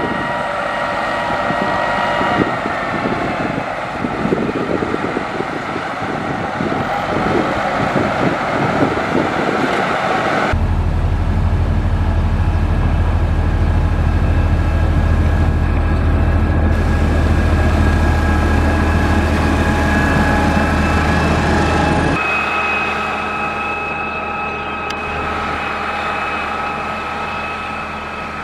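Motor grader's diesel engine running steadily, with a faint high whine over the engine note. About ten seconds in the sound switches abruptly to a heavier, deeper drone, and about twenty-two seconds in it switches back to a lighter running sound.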